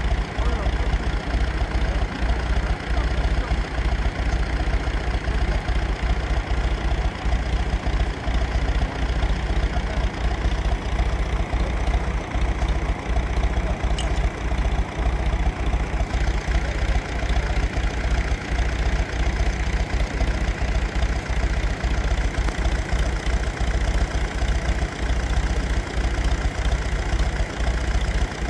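An engine running steadily at a constant speed, with a deep rapid pulsing throughout.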